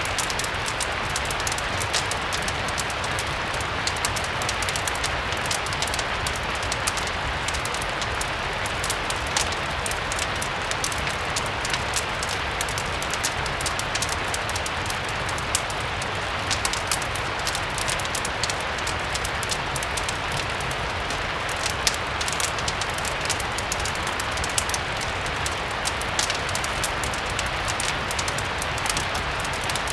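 Steady rain mixed with a crackling fireplace fire: an even hiss of rain with many small, sharp crackles scattered through it.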